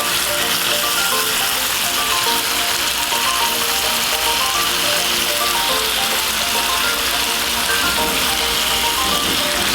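Slices of turkey ham frying in margarine in a pan, with a steady sizzle, and background music playing softly.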